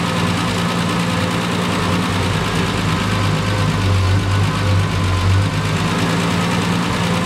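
Triumph TR6's 2.5-litre straight-six engine idling steadily while the mixture of its twin carburettors is being set. A deeper hum swells for about two seconds midway, then settles.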